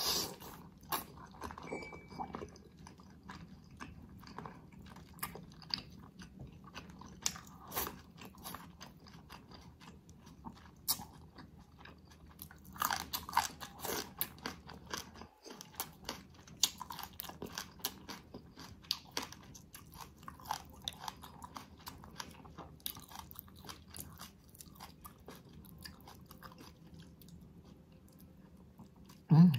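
A person biting and chewing pieces of spicy braised ox feet, with irregular mouth clicks throughout.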